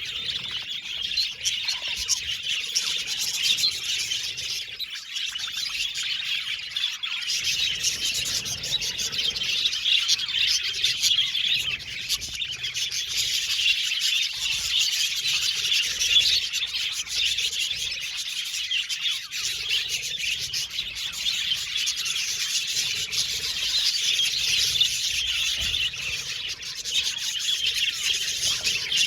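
A flock of budgies chirping and chattering continuously, with many overlapping high chirps and warbles.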